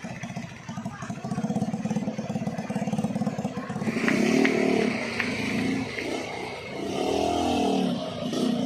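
Heavy truck engines running close by on a steep climb. A rapid, even engine beat for the first few seconds gives way to engine pitch rising and falling as the revs change, with a few sharp clicks about four to five seconds in.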